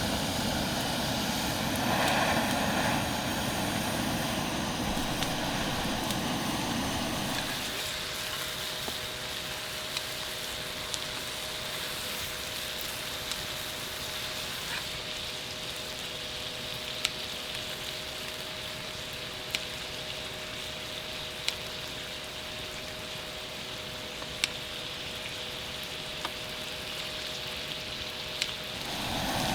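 A distant aircraft's low rumble fades out after about seven seconds. It leaves a quieter background with a faint steady hum and a sharp tick every couple of seconds.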